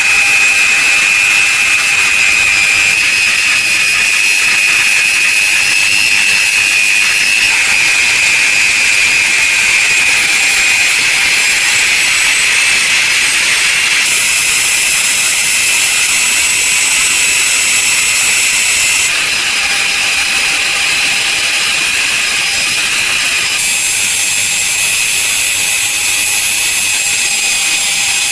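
A power tool running steadily with a high-pitched whine and hiss. The sound shifts abruptly several times, as between cut takes of the same job.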